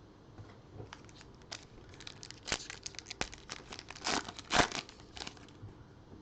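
A trading-card pack's wrapper being torn open and crinkled by hand, an irregular run of crackles with the loudest rips about two and a half and four seconds in.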